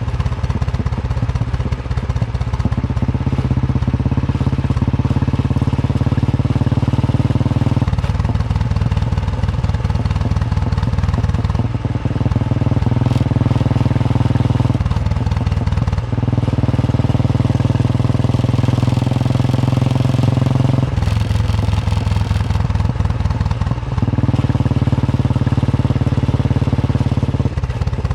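Royal Enfield Bullet 350's single-cylinder engine thumping while the motorcycle is ridden. The engine note drops and then picks up again four times, every six seconds or so.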